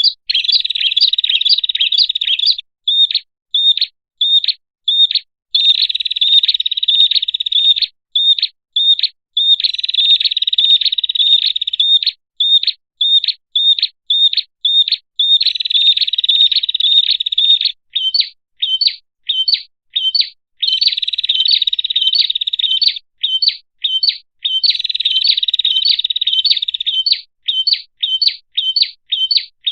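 Prinia (prenjak) call played as a bird-lure recording: stretches of rapid, high-pitched trilling alternate with runs of separate sharp chirps, about two a second.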